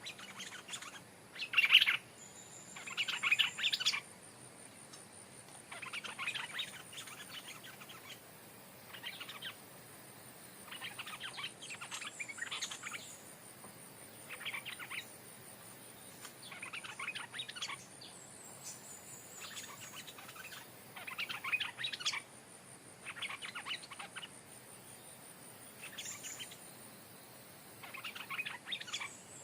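Stripe-throated bulbuls singing: short song phrases repeated every one to two seconds, the loudest about two and three seconds in, over a faint steady high-pitched tone.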